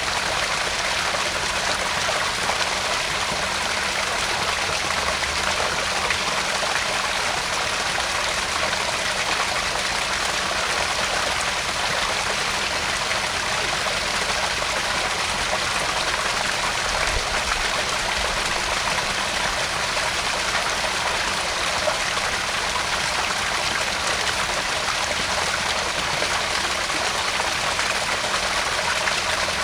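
Garden pond waterfall: water splashing and trickling over rocks into the pond in a steady, even rush.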